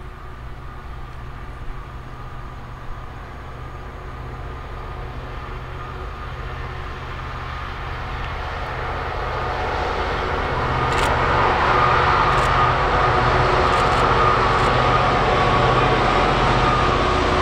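A train approaching on the main line, its rumble and wheel-on-rail noise growing steadily louder for about ten seconds and then holding loud as it draws level, with a few sharp clicks near the loudest part.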